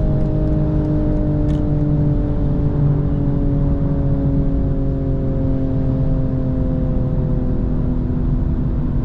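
BMW M240i xDrive's B58 turbocharged inline-six running under a steady low road rumble, its engine note falling slowly and evenly as the revs drop.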